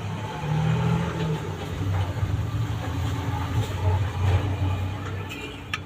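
A motor engine running with a low, uneven hum, and a sharp click near the end.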